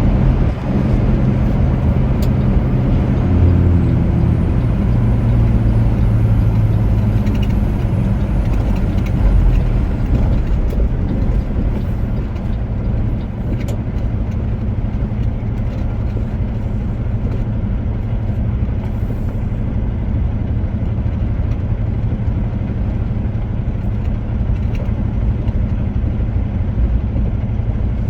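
Semi-truck's diesel engine running steadily as the truck drives along, a constant low engine hum over road noise.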